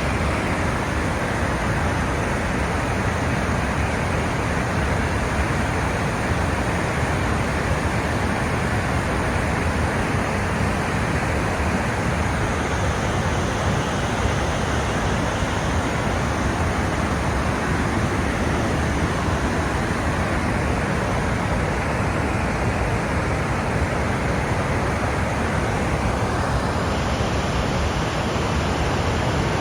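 Water pouring down an open dam spillway from a full lake: a steady, dense rushing noise.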